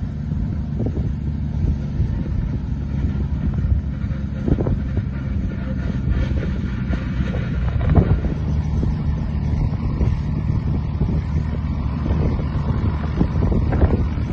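Robinson R44 helicopter's six-cylinder Lycoming piston engine and rotors running: a steady low drone, with a couple of brief louder bumps about four and eight seconds in.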